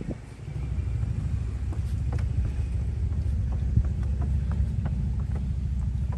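Strong wind buffeting the microphone: a steady low rumble that sets in about half a second in, with faint scattered knocks from a distance.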